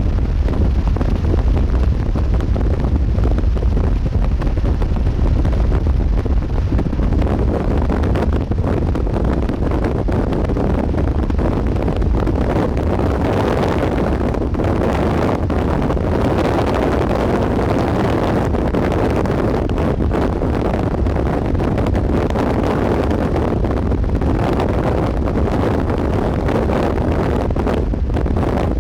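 Strong wind buffeting the microphone: a steady low rumble with gusty rushing that swells and fades.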